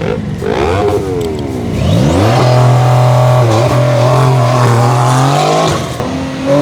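Car engine revved in quick blips, the pitch falling after each, then held at high revs for about three and a half seconds before letting off near the end.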